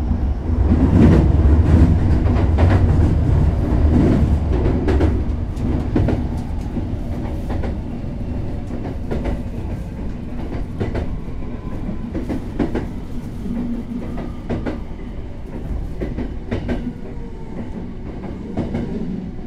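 Hankyu Railway train heard from inside the car, a low running rumble with wheels clicking over rail joints. It is loudest for the first few seconds, then eases off as the train slows for its station stop.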